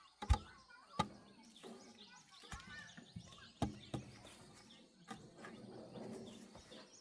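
Birds chirping, with several sharp knocks scattered through.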